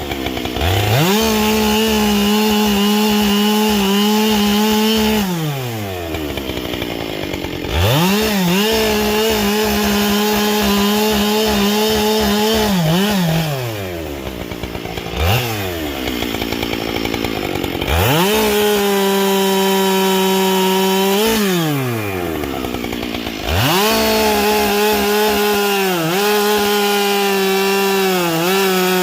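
Husqvarna 572XP two-stroke chainsaw fitted with a carbide chain, revving up to full throttle for cuts in wood and dropping back toward idle between them, several times over. Near the end its pitch dips briefly a few times as the chain loads in the cut.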